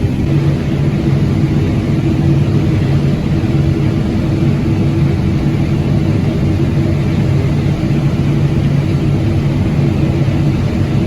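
Diesel engine of harvest machinery running steadily at working speed, a loud even hum with a constant pitch.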